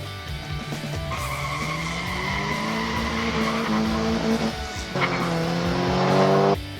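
Race-car engine sound effect revving up in two climbing runs over background music, the second cutting off abruptly near the end.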